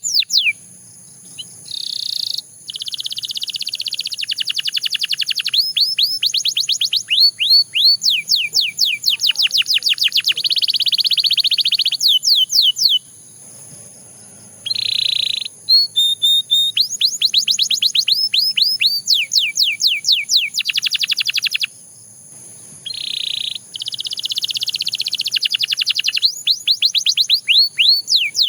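Domestic canary singing: fast runs of quick falling whistled notes alternate with dense buzzy trills, broken by short pauses.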